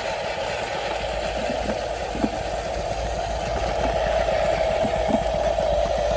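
Huina 1573 RC dump truck's electric motor and gearbox whirring steadily, with a low hum joining about a second in.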